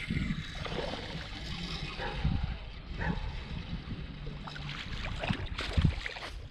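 Wind buffeting the microphone and water lapping against a small fishing boat, with a few knocks against the boat, the loudest near the end.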